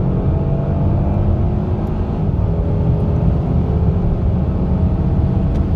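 Cabin sound of a 2019 Kia Stinger GT's twin-turbo 3.3-litre V6 under full-throttle acceleration from highway speed. A steady low road-and-engine rumble carries a faint engine drone, with the car's engine sound enhancement turned down.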